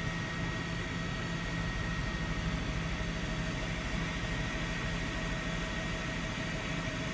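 A steady mechanical hum over a constant hiss, with a few fixed whining tones and no change in level throughout.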